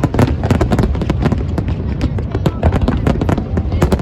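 Aerial fireworks going off in a dense, rapid barrage: many sharp cracks and booms a second, with no gap.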